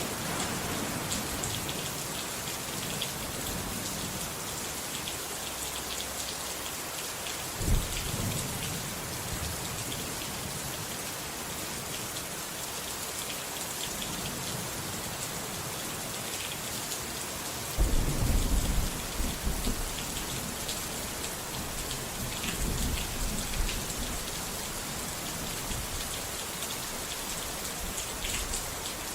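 Steady rain falling, with thunder: a short sharp crack about a quarter of the way in, then a longer rolling rumble past the middle that fades away over several seconds.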